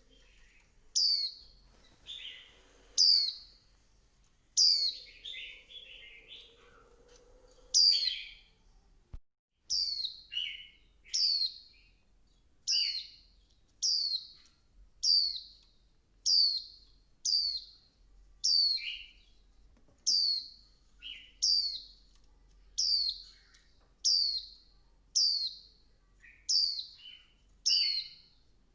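Female white-eye calling: short, high notes slurring downward, repeated about once a second, some followed by a lower note. This is a female call of the kind played to excite male white-eyes into singing. The calls break off briefly about nine seconds in.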